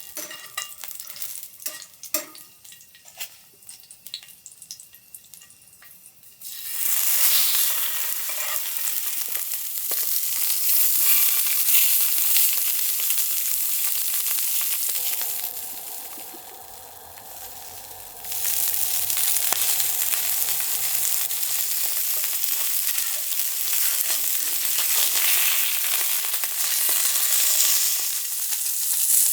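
Food sizzling in a hot pan. A few light clicks and taps at first, then loud frying starts suddenly about six seconds in. It drops quieter for a few seconds past the middle, then picks up again.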